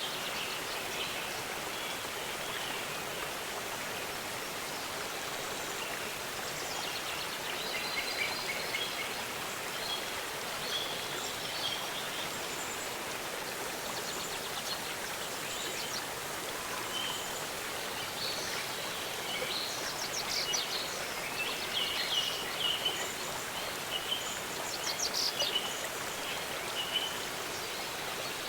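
Waterfall rushing steadily, with small birds chirping and trilling over it in scattered short calls that grow busier in the second half.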